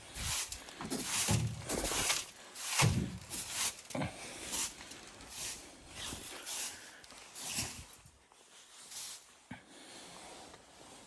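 Footsteps crunching through deep snow, a step about every half second to second, growing fainter and sparser near the end.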